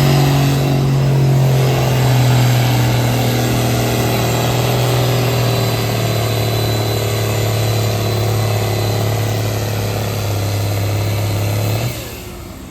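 Tractor engine working hard under load at a tractor pull. Its steady note sinks slowly as it goes, then cuts off abruptly near the end.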